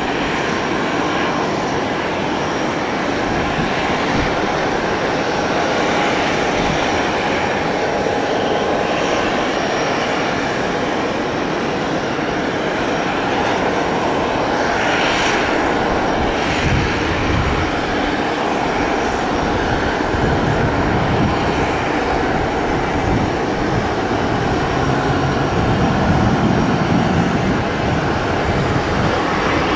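Airplane engines running with a loud, steady noise that grows slightly louder toward the end.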